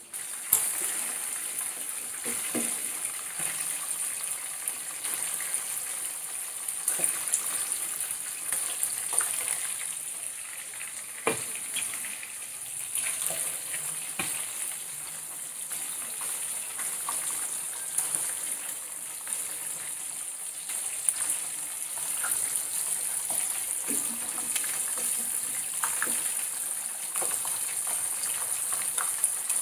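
Chicken pieces shallow-frying in bubbling oil in a pan on a low flame: a steady sizzle with scattered sharp pops and crackles.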